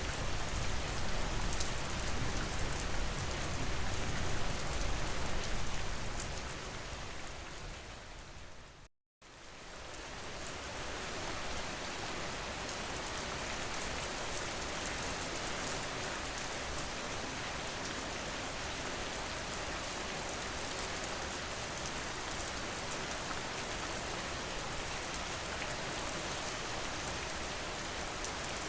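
Steady rain on a surface, with a heavy low rumble. About six seconds in it fades out to a moment of complete silence, then fades back in as a lighter, hissier rain with fine pattering drops that holds steady.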